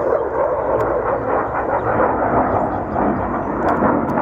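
Steady noise of an aircraft's engines, an even rush without distinct pitch changes.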